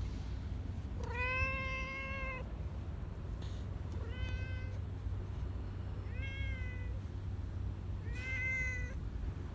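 Domestic cat meowing four times, the first call long and the next three shorter. Under the meows runs a steady low rumble.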